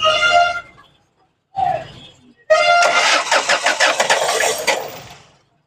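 Ford Figo engine being cranked on its starter, catching only roughly for a couple of seconds and then dying away. This is the hard starting and misfire caused by its failed number-one injector.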